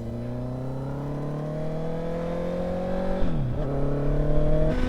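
Honda CBR650's inline-four engine through an aftermarket exhaust, accelerating hard: the note climbs steadily, dips at an upshift about three seconds in, climbs again, and shifts once more near the end.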